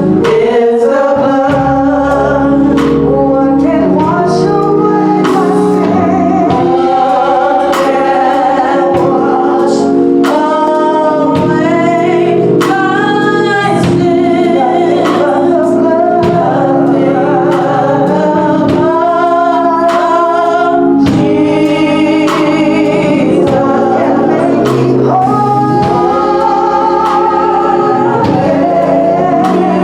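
Gospel choir singing, with male and female voices over held accompaniment chords.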